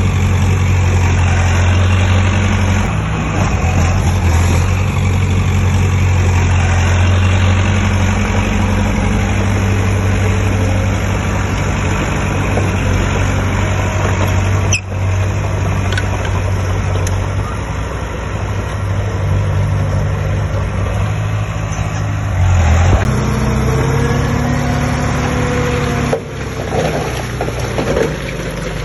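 Heavy construction machine's diesel engine running with a steady low drone, a single sharp knock about halfway through, and the engine note shifting in pitch near the end.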